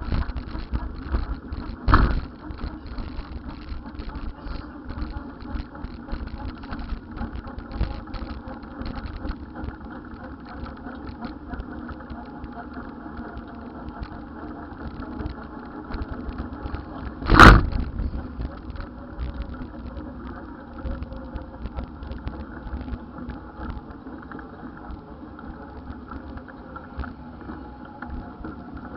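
Steady vehicle and road rumble with the low gusty buffeting of wind on the microphone. Two loud sharp thumps cut through it, one about two seconds in and one just past halfway.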